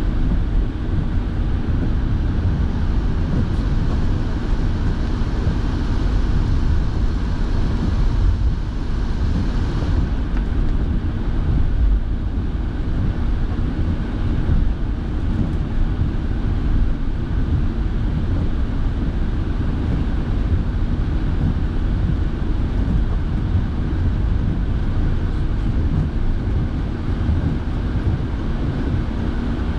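Steady in-car driving noise: low road and engine rumble with the car's heater fan blowing. A hiss on top eases off about ten seconds in.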